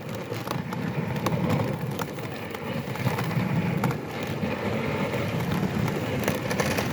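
Sled runners sliding over snow as the sled moves: a steady scraping rush with scattered small clicks and knocks.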